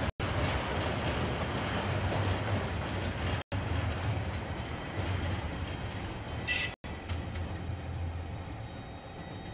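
KiwiRail train running past on the track, a steady low rumble of wheels on rail that slowly fades as it moves away. There is a brief high-pitched tone about six and a half seconds in, and the sound cuts out for an instant three times.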